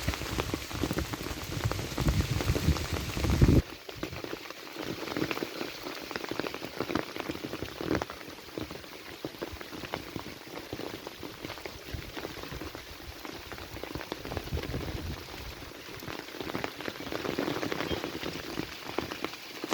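Heavy rain falling, a dense hiss full of individual drop patters. A low rumble under the rain cuts off suddenly about three and a half seconds in. After that the rain carries on quieter, with the low end building again near the end.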